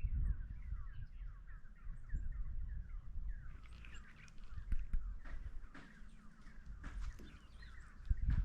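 A dawn chorus of many small birds chirping and singing in dense, overlapping short calls. A low rumble runs underneath and is heaviest near the start and the end.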